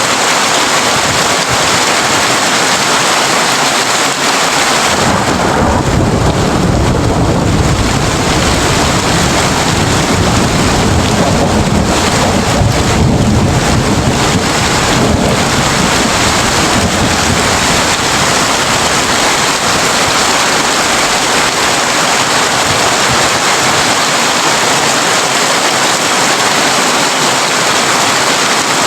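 Heavy rain falling steadily on a tin roof, with a long low roll of thunder starting about five seconds in and fading out about ten seconds later.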